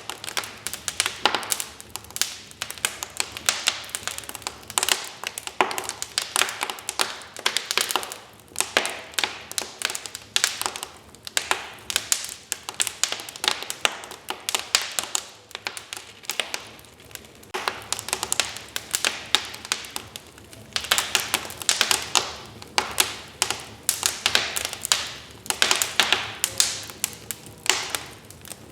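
Wood fire crackling in a fireplace: a dense run of irregular pops and snaps from the burning logs, thinning briefly a little past the middle before picking up again.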